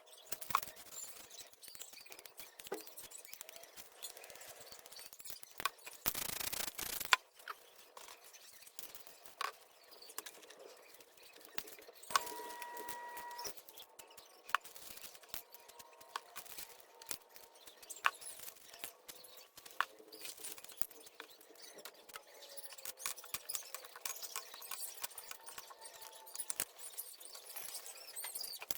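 Scattered small clicks, taps and rustles of handling, with one short hiss of a spray-paint can lasting about a second around six seconds in. A brief high steady tone sounds about twelve seconds in.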